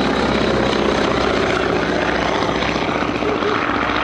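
Boeing P-26A Peashooter's 600 hp Pratt & Whitney Wasp radial engine and propeller running steadily in flight, at an even pitch.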